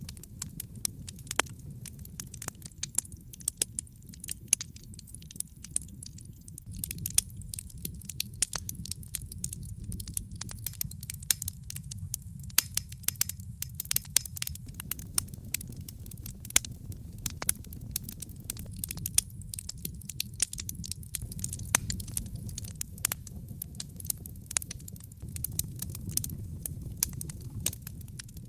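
Wood fire burning in a fireplace, with a steady low rumble of flames and frequent sharp crackles and pops of burning wood.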